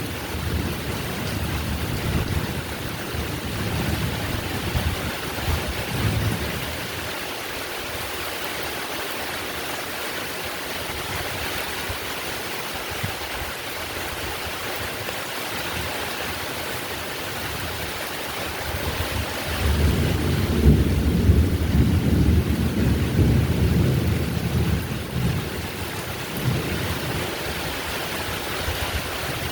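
Heavy, steady rain with rolling thunder: one long rumble fades out about a quarter of the way in, and another rolls in about two-thirds through and dies away near the end.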